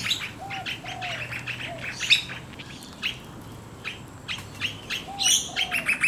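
Several birds chirping and calling: short high chirps throughout, a few lower, arched calls, and a quick even run of chirps near the end.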